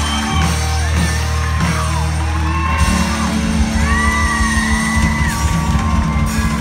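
Live country-rock band playing loudly in a large hall, with a steady bass, sustained chords and a singer's shouted vocals; a long held vocal note comes about four seconds in.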